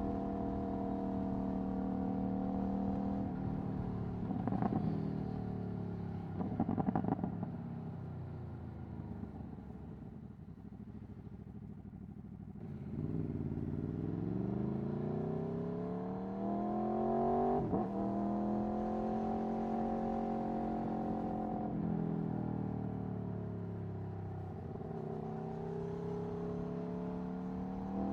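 Aprilia Tuono V4 1100's 1077 cc V4 engine through an Akrapovic Racing exhaust, heard from the rider's seat on the move. It holds a steady note, with two short crackling bursts about five and seven seconds in. The revs then fall away, climb again with a quick gear change about two-thirds of the way through, and dip and rise once more near the end.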